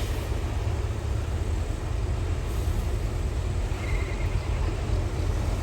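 Diesel engine of heavy earthmoving machinery running steadily, its sound mostly low and even.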